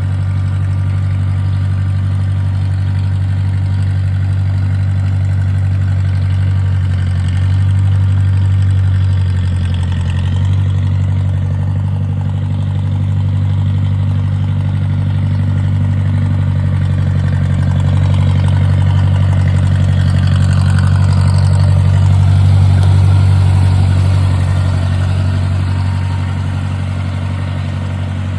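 1953 Ford Jubilee tractor's four-cylinder gasoline engine running steadily at an even speed, growing a little louder about three quarters of the way through.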